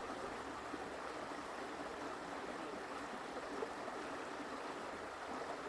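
A forest creek flowing, a soft, steady rush of running water.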